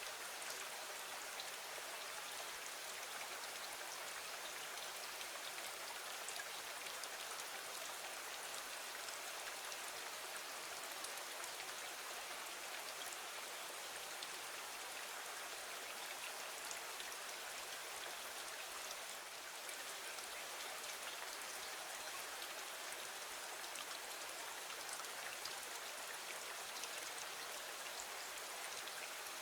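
Steady rain falling against a window, with many small individual drop ticks over an even rushing hiss.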